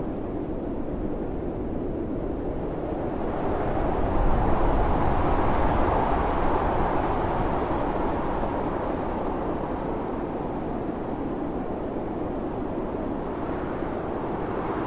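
Blizzard wind blowing, a steady rush that swells into a strong gust about a quarter of the way in and eases off again over several seconds.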